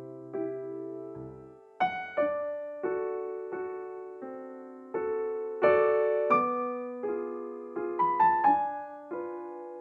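Background piano music: a gentle melody of struck notes and chords, each ringing and fading before the next.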